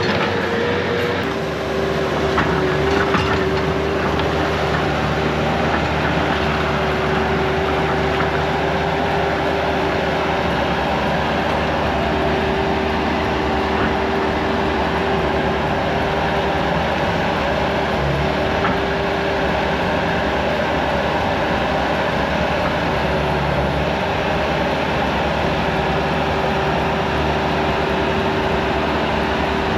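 Bobcat skid steer's engine running steadily under load, with a steady whine over a low drone.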